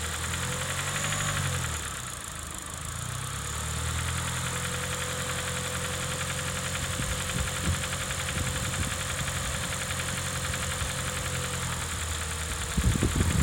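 Vauxhall Corsa VXR's turbocharged 1.6-litre four-cylinder engine running at low, steady revs, its note dipping and recovering about two seconds in. This is the engine whose knock was traced to warped connecting rods. A louder, rougher noise comes in near the end.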